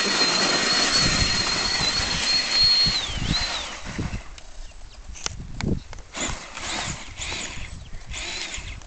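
Small electric vehicle motor whining steadily at a high pitch, then winding down and stopping about three seconds in. Scattered knocks and rustling follow.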